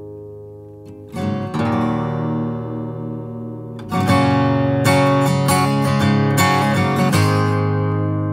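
Acoustic guitar strumming chords with no vocal. A fading chord gives way to new strums about a second in, and the strumming gets louder and more regular from about four seconds in.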